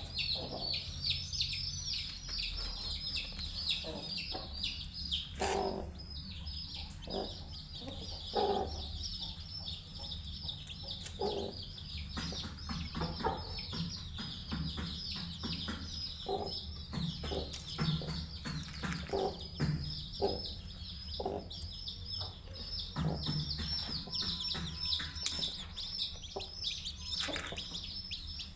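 Newly hatched chicks peeping in a constant stream of quick, high-pitched cheeps, with a hen clucking at intervals beneath them.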